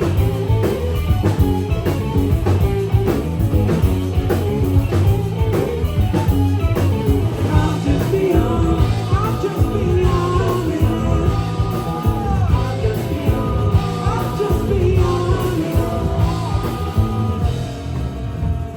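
Rock band playing live: drums, bass and electric guitar, with singing. A bending melody line comes in about halfway through.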